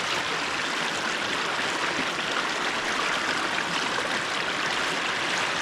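River current rushing steadily over rocks, a constant even rush of flowing water.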